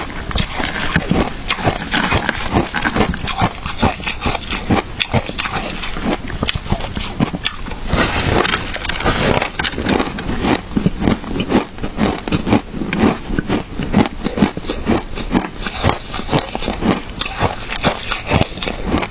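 Close-miked crunching and chewing of matcha shaved ice, a fast, uneven string of crisp crunches, several a second.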